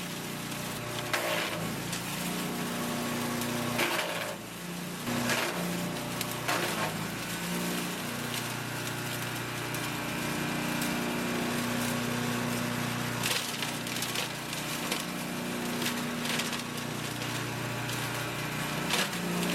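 Echo Bear Cat self-feeding wood chipper running steadily on its small gas engine, with several short bursts of crackling and splintering as branches are grabbed and chipped.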